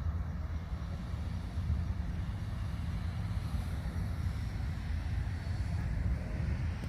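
Steady low rumble with a faint hiss above it and no distinct events.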